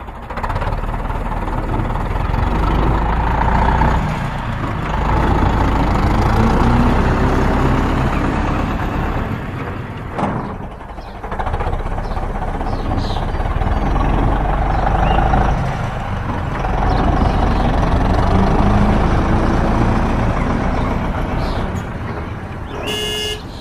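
Heavy vehicle engine running steadily and loudly, its level rising and falling and dipping briefly several times, most clearly about ten seconds in. A short pitched tone sounds near the end.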